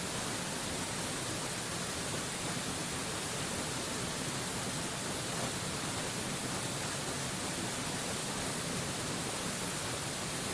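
Steady waterfall noise: an even, unchanging rush of falling water, heavy in the hiss and with no separate splashes or changes.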